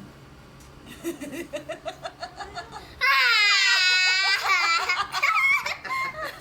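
A baby's soft, rhythmic giggling, then about three seconds in a loud, high-pitched squeal whose pitch bends and wavers before it breaks up into more giggly pulses.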